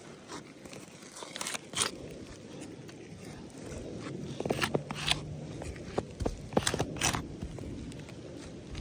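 Irregular footsteps, scuffs and scrapes on a roof surface, several sharp crunching steps about halfway through.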